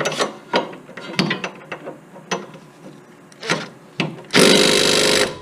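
Sharp metal clicks and clinks of a socket and wrench going onto the 14 mm upper control arm bolt, then a loud burst of about a second from an impact wrench hammering near the end, breaking the bolt loose.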